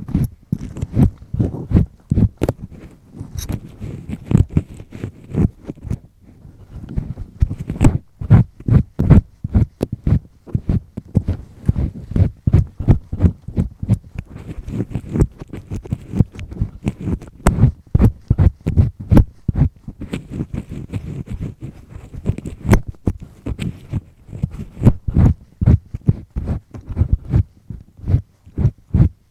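Double-disc earpick scraping firmly inside an ear canal: rapid, irregular rubbing and crackling strokes, several a second, with a short pause about six seconds in.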